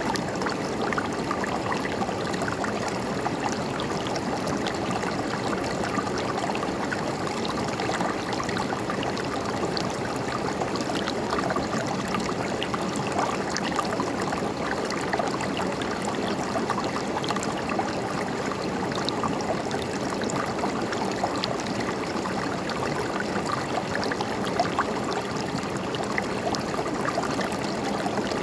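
River water flowing and gurgling: a steady rush with many small splashes scattered through it.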